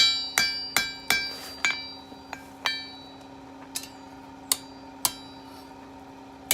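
Hand hammer striking hot steel on an anvil, each blow ringing, while tapering the bar of a leaf planter stake. There is a quick run of about eight blows, then four slower single blows spread over the rest.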